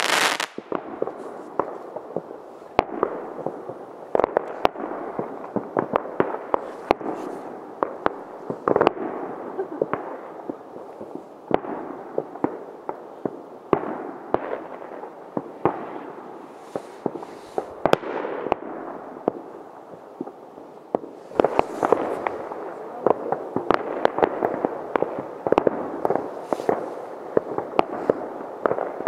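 New Year's fireworks: rockets and firecrackers going off in a constant stream of sharp bangs over a steady rumble and crackle of more distant explosions. The bangs come thicker about two-thirds of the way through.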